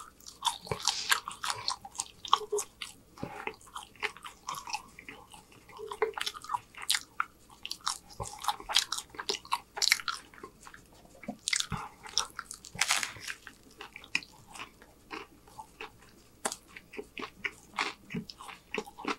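Close-miked chewing of a mouthful of french fries: wet mouth smacks and crunches in an irregular run of short clicks.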